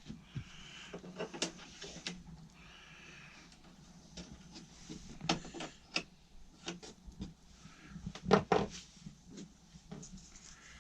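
Scattered clicks and knocks of hand work on copper pipe and its compression fittings, with the loudest double knock about eight seconds in.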